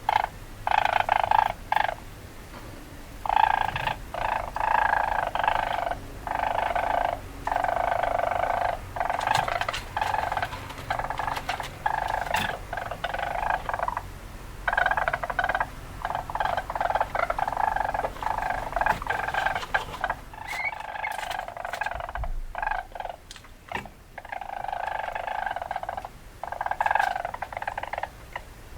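Weasel calls in repeated bursts, each lasting half a second to a second and a half, with short gaps between them.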